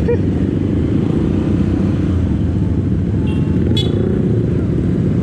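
Steady motorcycle engine and wind noise while riding, with a short vehicle horn toot about three and a half seconds in.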